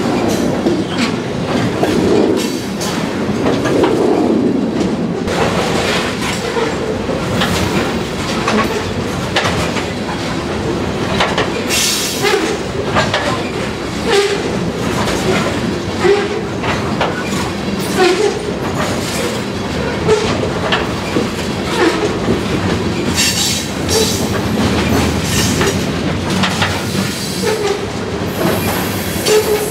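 Freight train cars, open-top coal gondolas and hoppers, rolling past close by: steel wheels running on the rails with a steady rumble and many sharp clicks as the wheels cross rail joints.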